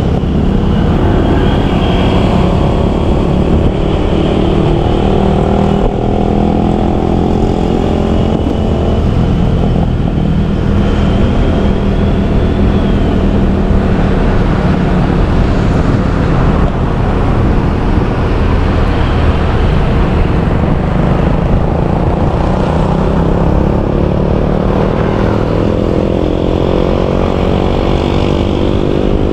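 Motorbike engine running during a ride, its pitch rising and falling with the throttle and climbing near the end as it accelerates. A faint high whine sounds over it through roughly the first half.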